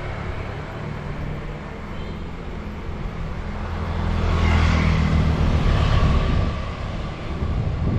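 A motor vehicle running close by, its engine hum and hiss swelling about four seconds in as it passes, then easing off.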